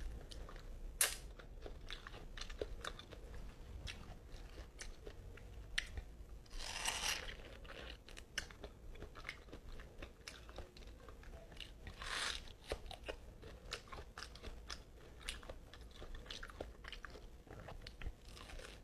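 Close-up eating sounds of soft, ripe mango: wet chewing with many sharp lip-smacking clicks, and two longer breathy noises partway through.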